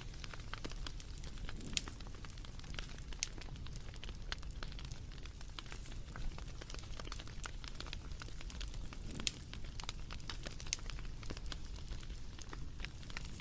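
Wood fire crackling: a steady low rumble with irregular sharp pops and snaps, a few louder ones scattered through.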